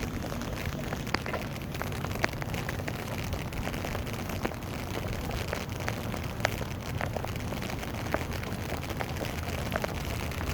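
Rain falling steadily, with many separate drops ticking sharply on surfaces at irregular intervals.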